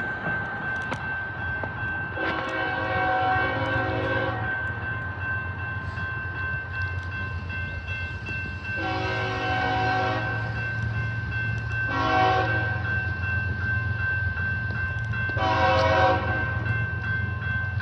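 Diesel locomotive horn on an approaching container freight train, sounding two long blasts, a short one and a long one: the standard signal for a grade crossing. A steady low engine rumble runs underneath.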